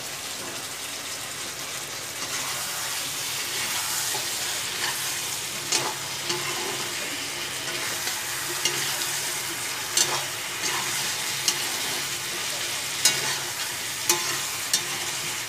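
Chicken and potato curry sizzling in a wok, stirred with a metal slotted spatula. The spatula scrapes and clicks sharply against the pan several times.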